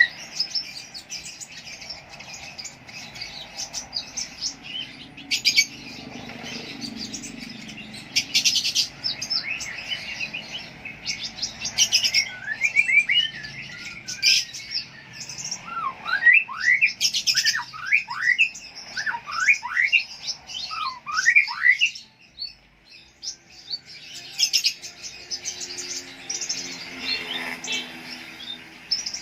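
A lovebird singing: rapid chattering trills and squeaky chirps, with a run of quick rising whistled notes in the middle and a short pause about two-thirds of the way through.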